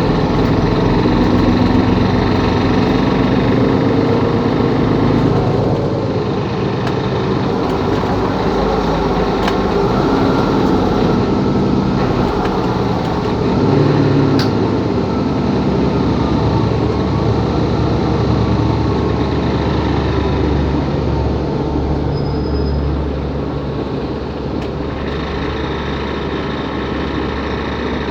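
Mercedes-Benz Capacity L articulated city bus driving, its diesel engine and drivetrain running with the pitch rising and falling. About two-thirds of the way through, it settles to a quieter, steadier low hum.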